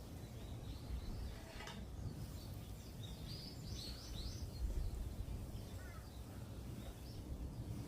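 Small birds chirping outdoors: a quick run of short, high chirps about three seconds in and a few fainter ones near the end, over a steady low rumble.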